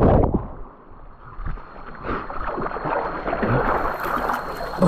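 Rushing water of a jungle waterfall and stream, an uneven steady hiss of noise, after a louder burst of noise cuts off about a third of a second in.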